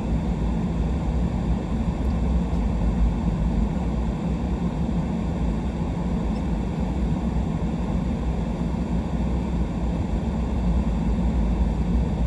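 Steady low rumble of a truck's engine and tyres while driving slowly, with no change in pace.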